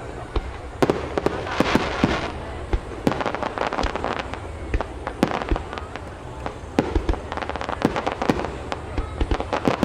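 Aerial fireworks bursting: many sharp bangs and pops in quick, irregular succession, thickening into dense clusters a couple of times.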